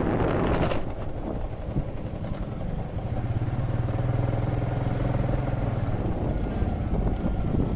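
An engine running at a steady speed, its even hum settling in about three seconds in, after a brief rush of wind-like noise at the start.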